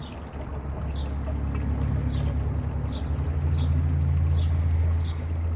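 Water running and trickling for a pet bird's bath, under a low steady hum that swells and then eases. A small bird's short falling chirp repeats about every 0.7 s.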